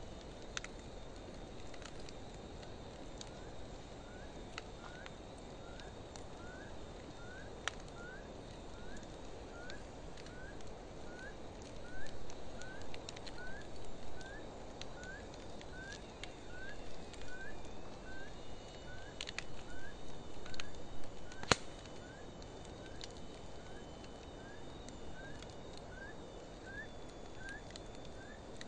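Driftwood and hardwood campfire burning steadily in a fire stand, with scattered sharp crackles and pops and a few louder surges of flame noise in the middle. Over it, a short high rising chirp repeats about twice a second.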